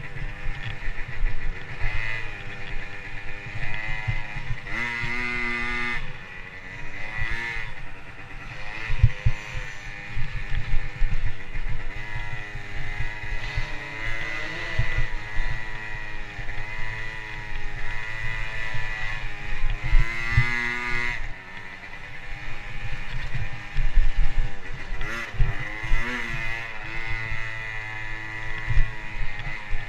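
Motocross dirt bike engine revving up and down repeatedly as it is ridden, pitch climbing and dropping every few seconds, with irregular low rumbling underneath.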